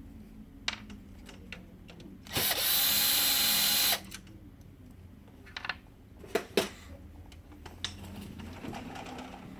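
Electric screwdriver running for about a second and a half, driving out a Phillips-head screw that holds the printer's fuser, followed a couple of seconds later by a few sharp clicks of small parts being handled.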